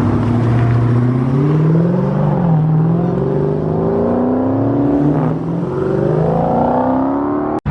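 A car engine accelerating hard, its revs climbing and dropping back at two upshifts, then climbing again. The sound cuts off abruptly near the end.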